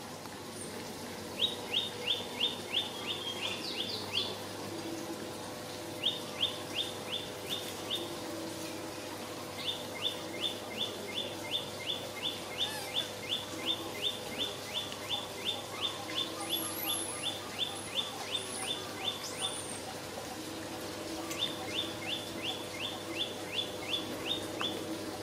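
A bird calling in runs of short, sharp down-slurred chirps, about three to four a second, four runs in all with short pauses between, the longest lasting nearly ten seconds. A few thin, higher whistles join in near the middle.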